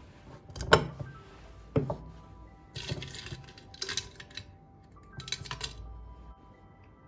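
Soft background music with household handling sounds: two sharp knocks early on, then a few short rustling or scraping bursts.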